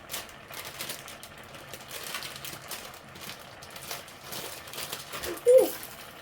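Scattered soft clicks and crackles at a stovetop pot as noodles and seasoning go into simmering sauce. About five and a half seconds in there is one short, louder squeak that rises and falls in pitch.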